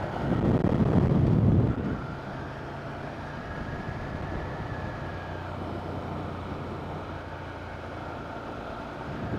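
Ducati 797 motorcycle's air-cooled L-twin engine running under the rider: a louder rush of engine and wind noise for the first couple of seconds, then steady, lower-pitched cruising.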